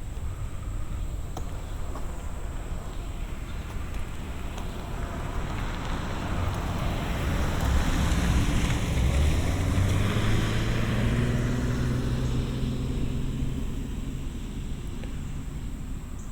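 A motor vehicle passing on a nearby road: an engine hum with a broad rush that swells for several seconds, peaks midway, then drops slightly in pitch and fades.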